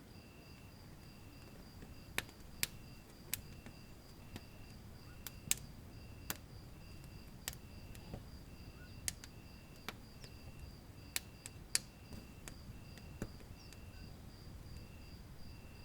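Wood fire in a fireplace crackling, with about a dozen sharp, irregular pops over a low rumble of the flames. Behind it run two steady, high-pitched pulsing tones: one quick and higher, one in longer, lower beeps.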